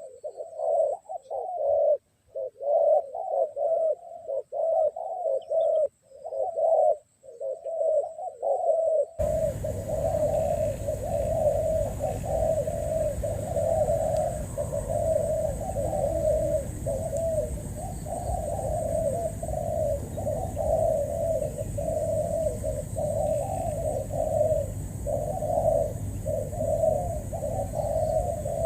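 Spotted doves cooing over and over in close, repeated phrases. About nine seconds in, a steady low rumble and hiss suddenly comes up underneath the calls.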